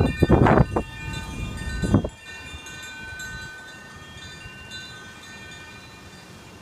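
Wind chimes ringing in strong gusting wind, several bell tones at different pitches sounding and dying away together. Wind buffets the microphone loudly for the first two seconds, then drops off suddenly, leaving the chimes ringing more faintly.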